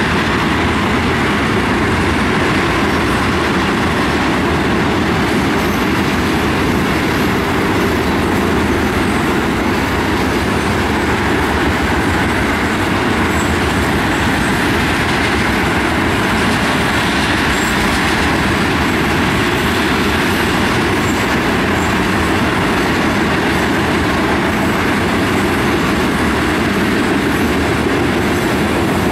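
Freight train tank cars rolling steadily over a railway overpass bridge: the continuous noise of steel wheels running on the rails.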